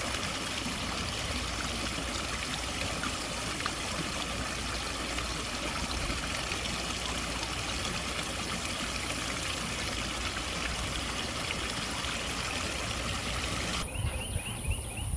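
Steady rushing noise with no distinct events, cutting off sharply about a second before the end.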